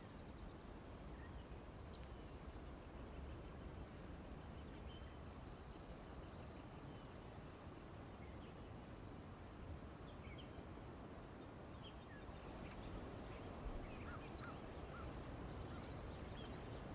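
Faint outdoor ambience: a steady low rumble with distant small birds chirping, including two short high trills a few seconds in and scattered chirps near the end.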